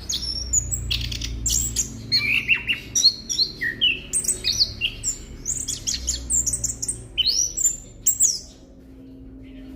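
Chestnut-capped thrush (anis kembang) singing a fast, varied run of high whistles, chirps and sliding notes that stops about eight seconds in, leaving a faint low hum.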